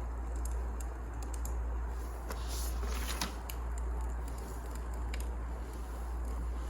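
Firewood crackling in a fireplace: scattered sharp snaps over a steady low hum, with a brief cluster of louder crackles about halfway through.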